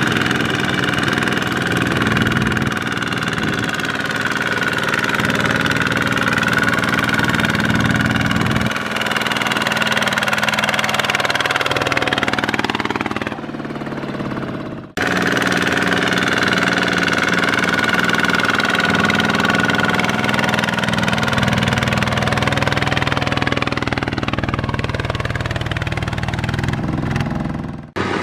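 Small Kubota single-cylinder diesel tractor engine running steadily, its speed dipping and rising at times. The sound breaks off abruptly about halfway and picks up again.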